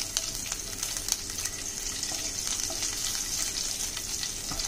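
Chopped green chillies and cumin seeds sizzling in hot oil in a non-stick kadhai as they are stirred with a spatula: a steady high hiss with scattered small crackles.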